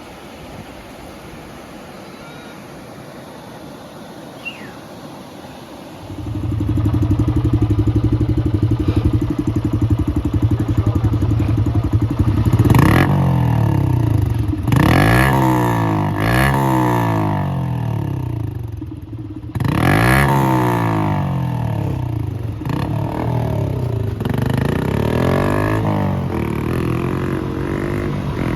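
Rushing water noise, then a motor engine starts up about six seconds in and runs steadily before revving up and down several times.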